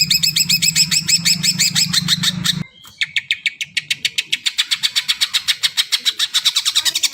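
Cucak ijo (green leafbird) singing a rapid trill of repeated falling notes, about ten a second, over a low hum. A little over two seconds in, the sound cuts off abruptly with the hum, and a faster run of repeated notes follows.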